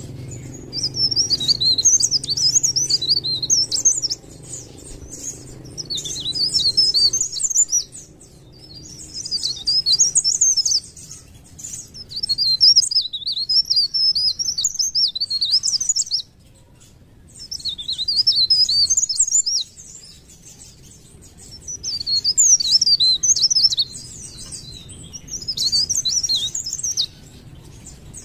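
Cikrak daun songbird singing in fast, high twittering phrases of two to four seconds, about seven of them with short pauses between.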